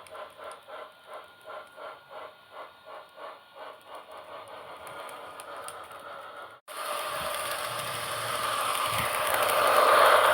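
HO-scale model train running on its track: a steady rhythmic clatter of about two to three beats a second. After an abrupt cut about two-thirds of the way through, a louder rushing, rattling running noise swells toward the end.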